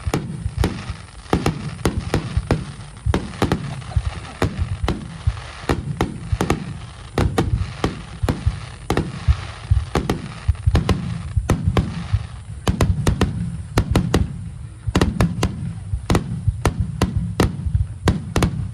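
Fireworks bursting in rapid, irregular succession, several booms a second, with a low rumble and crackling between them.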